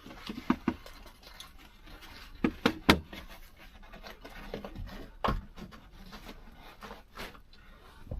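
Handling noise from working on a truck's headliner and ceiling trim: scattered light knocks and clicks, the loudest a quick few near three seconds in, with another around five seconds in.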